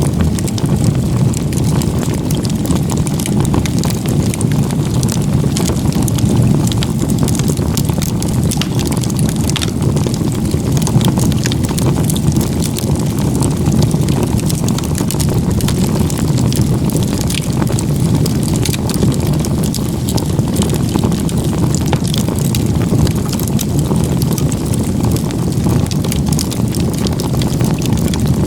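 Wood campfire built in a log-cabin crib stack, burning strongly: a steady low rush of flame with frequent small crackles and pops from the burning firewood.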